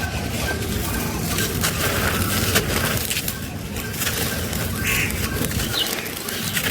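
Dried sand-and-cement texture crumbling and being crushed by hand: a steady run of crunchy, gritty crackles and small snaps.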